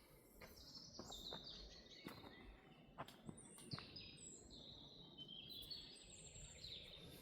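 Small songbirds chirping in quick runs of short, falling notes throughout, with a few faint crunches and snaps of footsteps on the forest floor.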